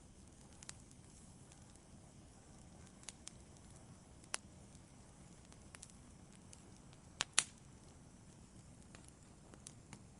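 Wood fire crackling in a fireplace: scattered sharp pops and snaps over a faint steady hiss, with two loud pops close together about seven seconds in.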